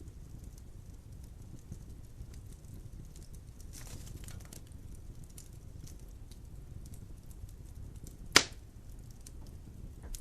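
Logs burning in a fireplace: a steady low rumble of the fire with scattered small crackles, a brief burst of crackling about four seconds in, and one loud sharp pop a little after eight seconds.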